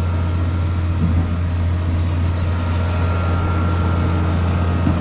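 Steady low rumble of a running car engine, unchanging throughout.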